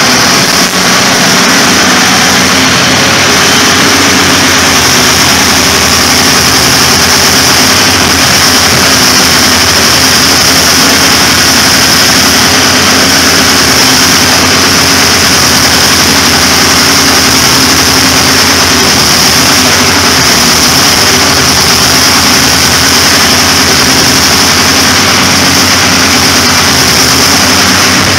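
Twin V12 diesel engines of a Poclain 1000 hydraulic excavator running loud and steady, with no change in speed.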